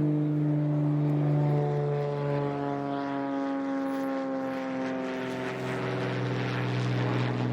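A propeller plane flying over, its engine note falling slowly and steadily in pitch as it passes.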